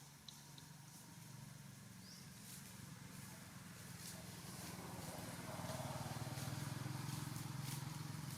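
A motor engine running steadily, growing louder over the first five seconds and then holding, with a few faint ticks near the start.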